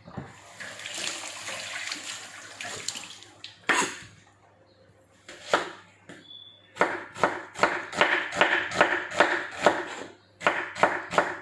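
Water runs briefly at the start. A knife then slices an onion on a cutting board: a few single knocks, then steady quick strokes, about three to four a second, with a short pause near the end.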